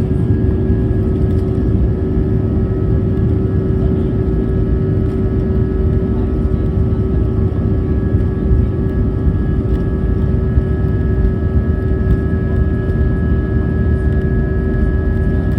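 Airbus A320 cabin noise in flight: the steady rumble of the jet engines and airflow, with a steady engine whine made of several constant tones.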